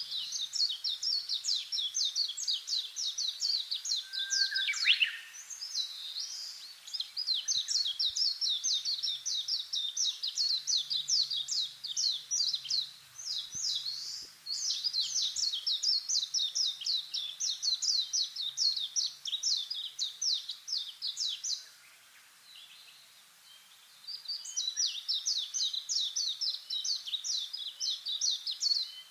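A bird calling in long runs of rapid, high chirps, many a second, broken by short pauses, with one brief falling note about five seconds in.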